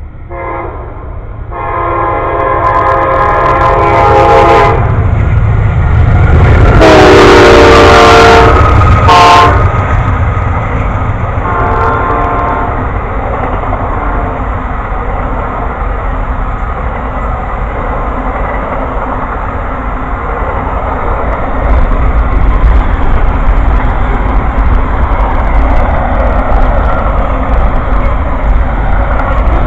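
Amtrak Auto Train's locomotive horn sounding four blasts in the first dozen seconds, the third the loudest, as the train approaches. After the horn comes the steady rumble of the train passing, which grows heavier past the two-thirds mark.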